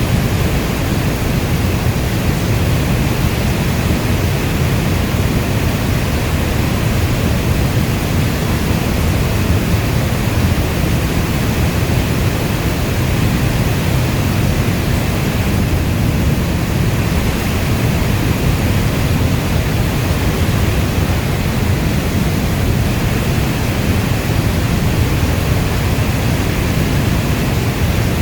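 Steady heavy rainfall making an even, unbroken rush with a deep low end, like brown noise, and no single drops or thunder standing out.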